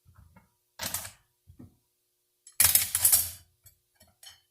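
Steel clutch plates and friction discs of a 46RE automatic transmission's clutch pack clinking against each other and the clutch drum as they are set in place. A single clink about a second in, then a louder cluster of metal clatter around the three-second mark, with a few light taps after.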